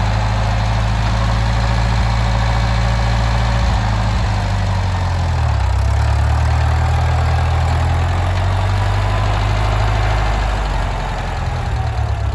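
Ford 5000 tractor engine running at a steady low speed, its note shifting slightly about five seconds in and back again near the end.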